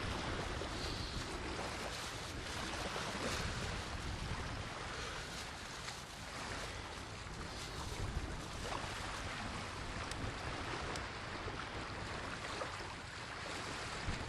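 Sea surf washing on the shore, with wind blowing across the microphone: a steady rush of noise.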